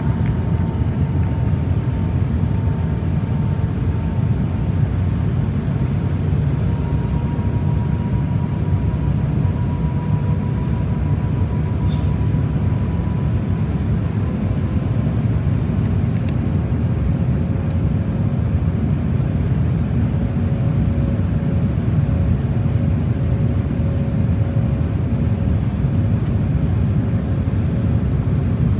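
Steady roar of engine and airflow noise inside the cabin of an Airbus A350-1000, with its Rolls-Royce Trent XWB engines. Faint engine tones slowly drift in pitch.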